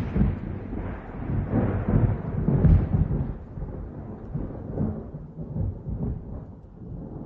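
Thunder rumbling in long, uneven rolls and slowly dying away.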